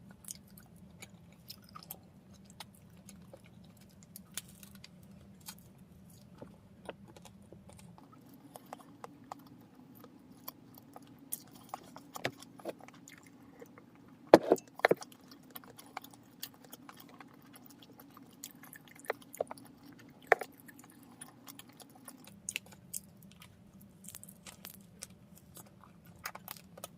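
Chewing bread close to the microphone, with many small scattered clicks and crinkles, and a few sharper knocks about halfway through.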